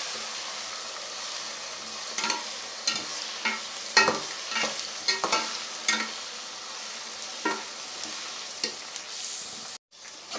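Oil sizzling steadily as browned onions with ginger-garlic paste fry in a metal pot, while a metal spatula is stirred through them, scraping and clinking against the pot every second or so. The sound breaks off briefly near the end.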